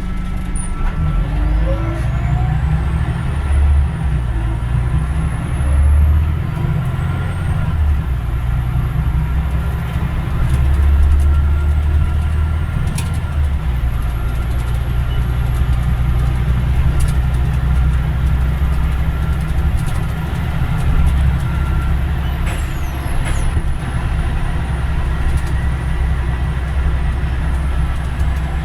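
Scania Omnidekka double-decker bus under way, heard from on board. Its engine and drivetrain give a steady low rumble that swells and eases every few seconds.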